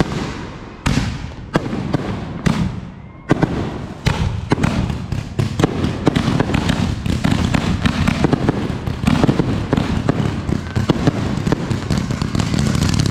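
Consumer fireworks going off: several separate bangs about half a second apart with fading tails, then from about four seconds in a dense, continuous crackling barrage of rapid pops.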